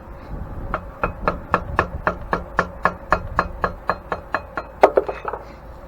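Rapid hammer blows on metal, about four a second with a ringing tone, ending with a harder strike near the end: likely chipping old Babbitt bearing metal out of an antique grain mill's bearing housing.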